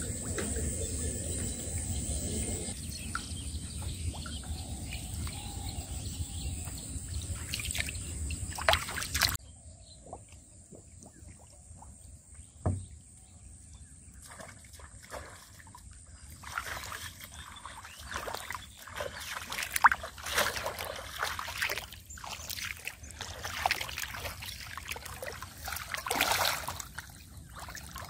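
Shallow muddy water splashing and sloshing irregularly as hands grope through it for catfish. A steady background hiss stops suddenly about nine seconds in, and the splashes grow denser toward the end.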